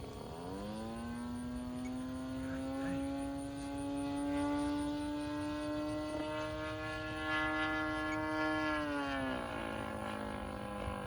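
Small two-stroke gas engine of a 20cc RC airplane running under power with its propeller. The engine note jumps up about half a second in, climbs slowly in pitch, then drops to a lower note about nine seconds in.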